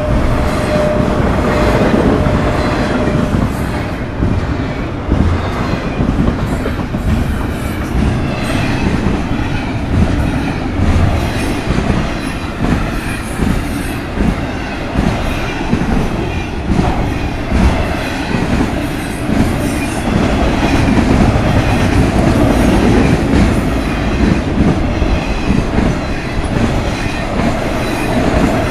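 Florida East Coast Railway freight train's cars rolling past a grade crossing, wheels clacking over the rail joints in a steady rhythm of thumps about once a second over a continuous rumble.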